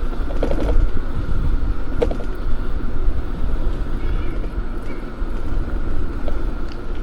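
Steady low rumble of wind buffeting the microphone while riding a bike along a road, with a couple of brief faint sounds about half a second and two seconds in.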